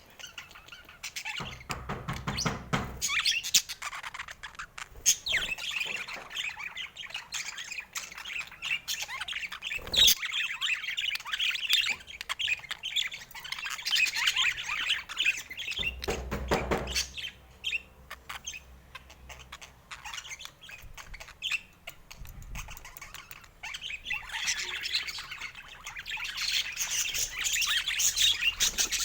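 Budgerigars chirping and chattering continuously in quick, warbling twitters and squawks, with a sharp click about a third of the way through and a couple of brief low rumbles.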